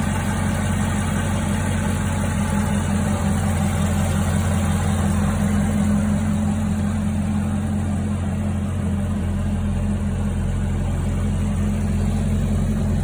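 Chevrolet Camaro ZL1's supercharged 6.2-litre LT4 V8 idling steadily.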